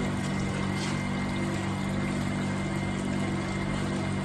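A machine running with a steady, even hum made of several low pitches.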